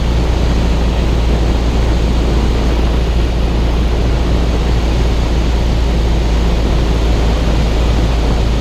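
Cessna 172's engine and propeller running steadily on final approach, a constant low drone with no change in pitch.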